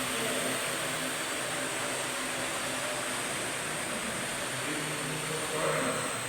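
Parrot AR.Drone 2.0 quadcopter in flight: its four electric motors and propellers make a steady buzzing hum with a high whine over it, swelling briefly near the end.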